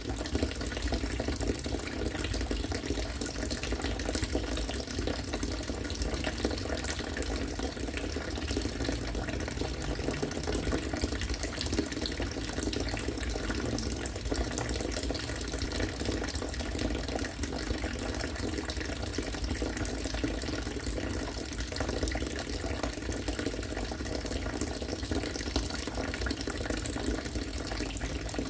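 Collected rainwater falling in a steady, continuous stream into water, with a constant bubbling splash.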